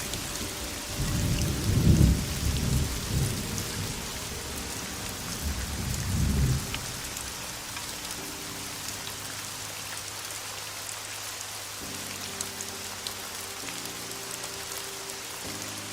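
Heavy, steady rain falling, with thunder rumbling twice in the first half. Soft sustained music chords come in during the second half under the rain.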